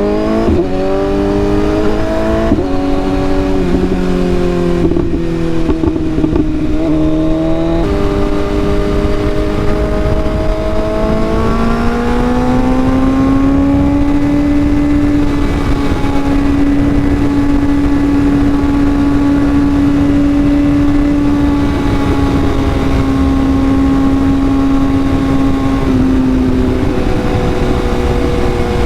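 Sport bike engine pulling through the gears, its pitch rising and dropping back with quick upshifts in the first eight seconds, then climbing again and holding a steady pitch at cruising speed, easing slightly near the end. A steady wind rush runs underneath.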